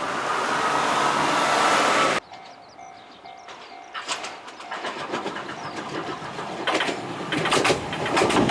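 Tram running on rails: a loud rising running noise that cuts off abruptly about two seconds in, then a quieter stretch in which wheel clicks over rail joints build up again toward the end.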